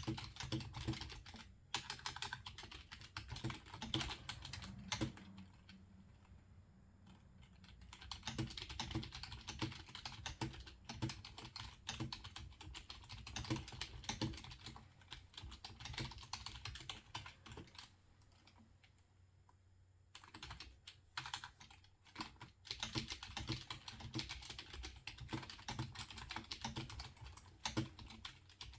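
Typing on a computer keyboard: rapid runs of soft key clicks, pausing twice for a couple of seconds.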